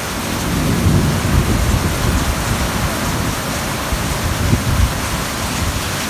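Heavy rain pouring down steadily, with low rumbles of thunder swelling in the first two seconds and again around four and a half seconds in.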